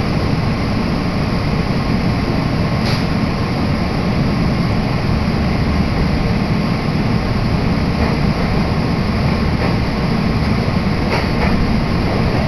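Steady low rumble of an electric commuter train running, as heard from inside the car, with a few faint clicks about three seconds in and near the end.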